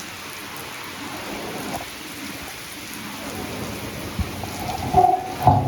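Heavy rain pouring down steadily. Near the end a few sharp knocks and a louder, uneven sound come in over it.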